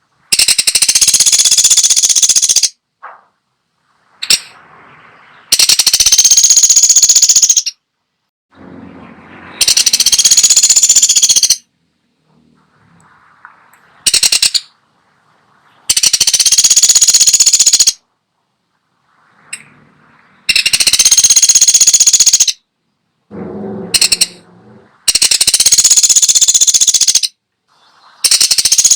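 Woodpecker (pelatuk sampit) giving loud, high rattling trill calls. Each call lasts about two seconds and comes again roughly every four to five seconds, six or seven times in all.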